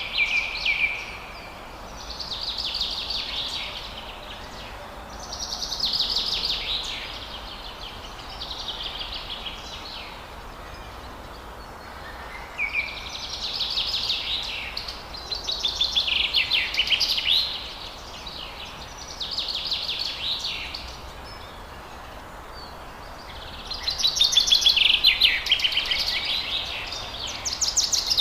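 Forest birds singing: phrases of rapid high chirps and trills a second or two long, repeated every few seconds, over a steady background hiss, loudest near the end.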